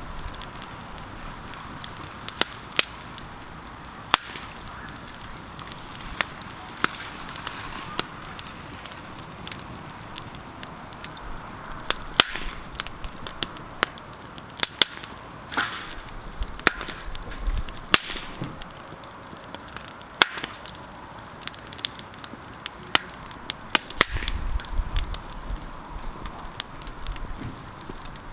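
Wood campfire crackling: sharp, irregular pops and snaps over a steady hiss of burning. A low rumble joins in for a couple of seconds near the end.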